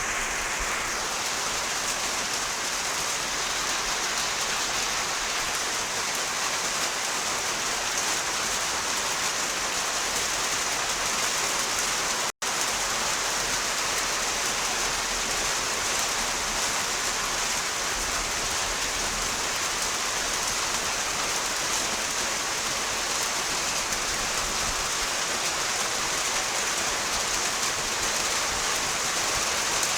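Steady rain falling and pattering on surfaces, an even hiss without let-up. The sound cuts out for an instant about twelve seconds in.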